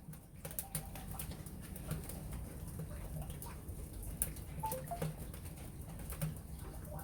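Wood fire crackling and popping inside a ceramic pot: irregular sharp snaps over a steady low rumble.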